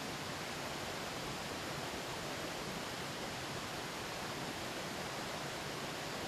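Mountain stream flowing over rocks, a steady, even rush of water with no change in level.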